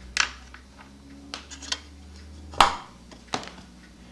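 Light knocks and clicks as a cuckoo clock bellows and small tools are handled and set down on a workbench, five or six separate strokes with the loudest about two and a half seconds in. A faint low hum underneath stops at that same loud knock.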